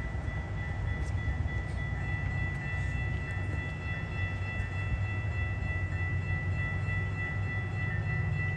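GO Transit commuter train at a level crossing: a steady deep rumble with several steady high-pitched tones held above it, one more tone joining about two seconds in.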